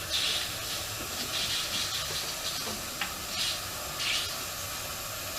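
Steady hissing of water and air rushing through the plumbing of a freshly filled water heater, with brief surges about once a second.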